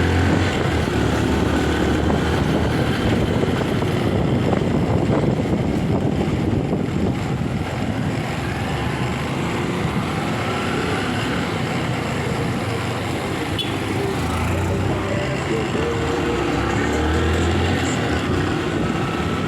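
Motorcycle engine running while riding in traffic, with steady road and traffic noise; the engine note rises and falls a few times later on.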